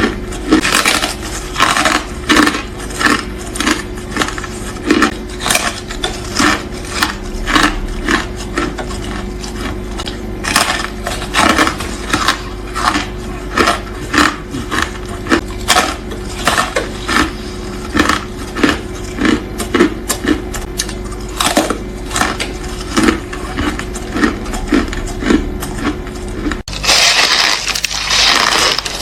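Ice being bitten and chewed close to the microphone: sharp crunches, one to two a second. Near the end the sound cuts abruptly to a brighter, hissier crunching.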